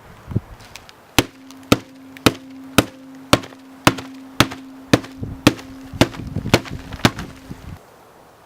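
About a dozen sharp knocks, evenly spaced at roughly two a second, over a steady hum that stops with them, with a flurry of lighter knocks between the main ones near the end.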